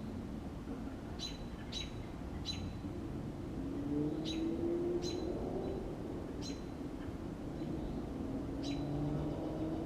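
A bird chirping: about seven short, sharp chirps at uneven intervals. A low hum, rising slightly in pitch, passes twice underneath.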